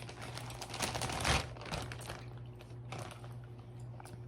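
Plastic candy bag crinkling and rustling as it is handled, loudest about a second in, then a few small ticks and rustles.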